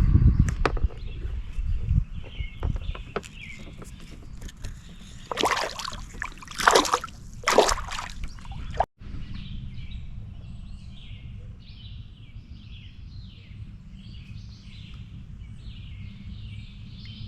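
Knocks and shuffling on a kayak, then three louder swishing, sloshing noises. After a brief cut, birds chirp over and over above a steady low outdoor background.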